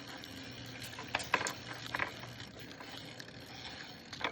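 Bicycle being ridden over rough ground: steady rolling noise with a few sharp rattles or knocks about a second in, around two seconds and near the end.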